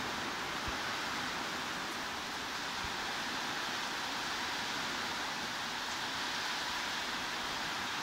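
Heavy rain falling as a steady, even hiss with no breaks or distinct drops.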